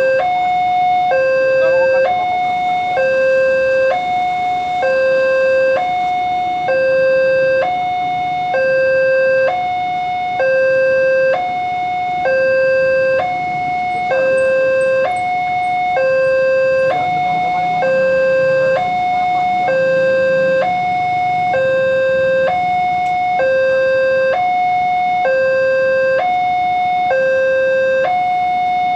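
Indonesian railway level-crossing electronic warning alarm, sounding a steady two-tone signal that alternates between a lower and a higher tone about once a second: the signal that a train is approaching and the crossing barrier is down.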